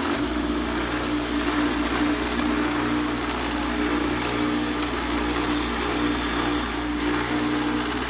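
Electric grinder running steadily at full speed with a constant hum and a high, even rasp, used to clean rust off bolt threads.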